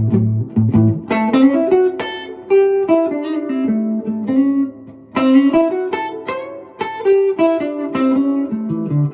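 Guitar playing a single-note blues lick in two phrases, starting about a second in and again about five seconds in, mixing the major third into the minor pentatonic scale.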